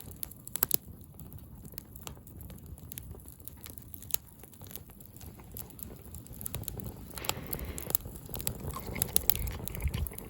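A person chewing and eating food close to the microphone, with scattered short, sharp clicks.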